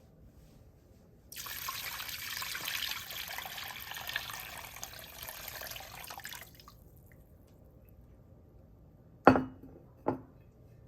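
Water running from a kitchen tap for about five seconds, then stopping. Near the end come two sharp knocks, the first louder, with a short low ring after each.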